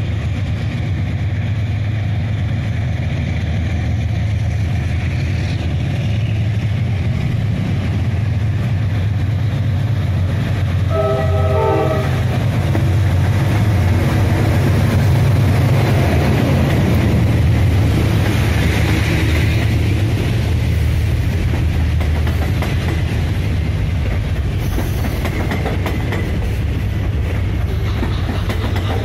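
Steady rumble of a train running, with a short sequence of horn tones about eleven seconds in.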